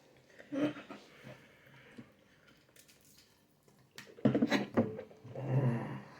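A person breathing hard through the mouth from the burn of freshly eaten bird's eye chilies, with a louder run of quick, huffing breaths about four seconds in.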